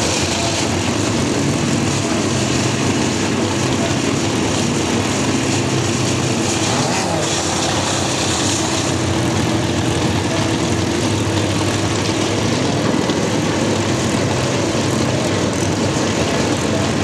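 Drag-racing motorcycle engines idling steadily at the start line, with a brief change in pitch partway through.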